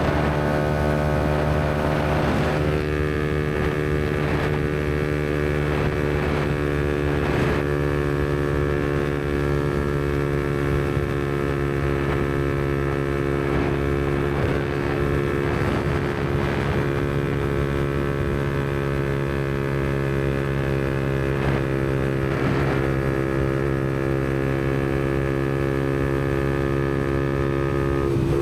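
Yamaha MT-125's single-cylinder four-stroke engine running through an aftermarket Black Widow exhaust while the bike cruises, holding a steady engine speed.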